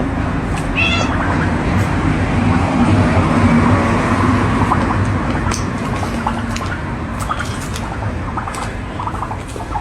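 A cat meowing once, briefly, about a second in, over a steady noisy background.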